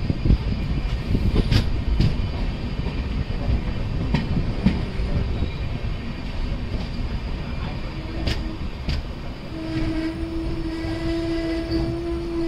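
Express train running at speed, heard from a coach: the wheels rumble steadily on the rails with sharp clicks at the rail joints. From about two-thirds in, the WAP-7 electric locomotive's horn sounds up ahead in one long steady note.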